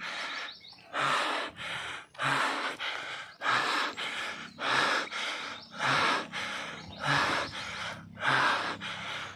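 Heavy panting of a cyclist labouring up a climb, a loud breath roughly once a second.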